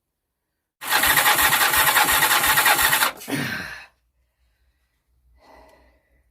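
Yamaha XJ550 Maxim's inline-four engine spun on its electric starter with the spark plugs out for a compression test: a loud, steady whirr with about four pulses a second for just over two seconds, then winding down as the starter is released.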